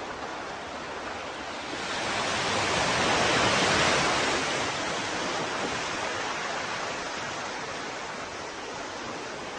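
Ocean waves: a steady surf hiss, with one wave swelling about two seconds in, breaking and washing back out over the next few seconds.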